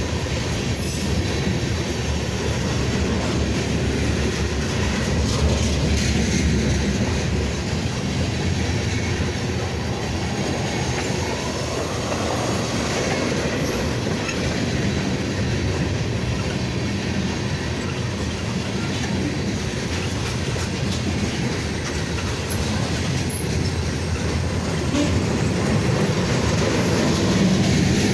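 Freight cars of a slow Union Pacific manifest train rolling past, a steady, continuous noise of steel wheels on rail.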